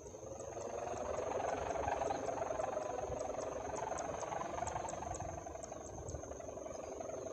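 Kite sendaren (a hummer bow with a stretched ribbon, mounted on a gapangan kite) humming in the wind: a wavering drone of several tones that swells about a second or two in, with wind rumble beneath it.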